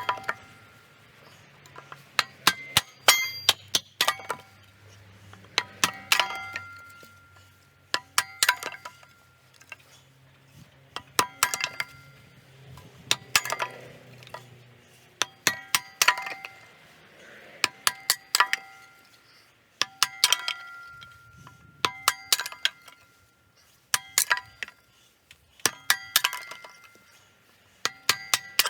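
Firewood being split into kindling on a homemade kindling splitter with an old axe-head blade: every two seconds or so a quick cluster of several sharp knocks, each with a short metallic ring.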